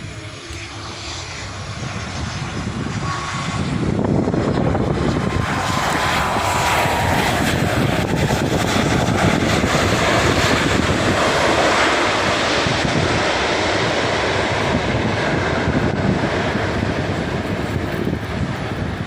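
Jet engines of a Super Air Jet Airbus A320-family airliner running at high power: a loud rushing roar that swells over the first few seconds and then holds steady, with a faint falling whistle early on.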